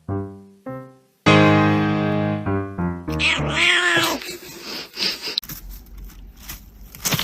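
Domestic cat meowing over music. The music plays a few short plucked notes, then a loud held note, and a long, bending meow comes about three seconds in.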